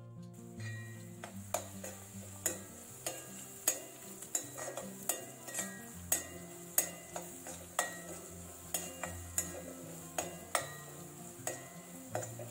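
Food sizzling in a pan while it is stirred, a utensil knocking against the pan about twice a second, over soft background music.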